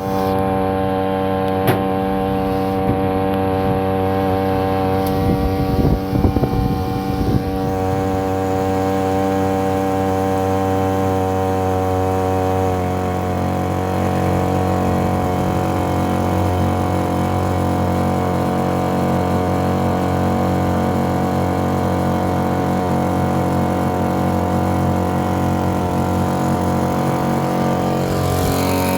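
Boat motor running steadily, its note shifting slightly about twelve seconds in; the engine is new and still being broken in.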